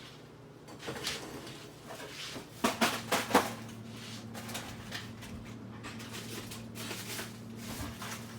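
Clicks and knocks of household things being handled, like a cupboard or drawer, with a cluster of sharper knocks about three seconds in. A steady low hum comes on at about the same moment and keeps going.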